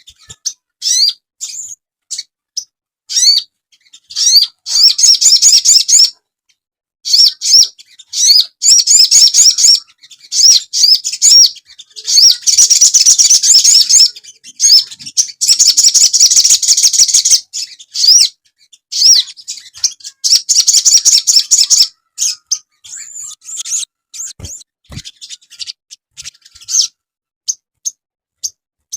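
Sogon birdsong played as a masteran track for luring and song training: phrases of high, quick, upward-sweeping chirps repeated in fast series, broken by short pauses.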